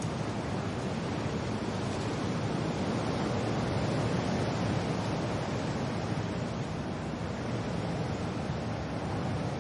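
Steady wind and rain, a dense even rush of noise that swells slightly about halfway through.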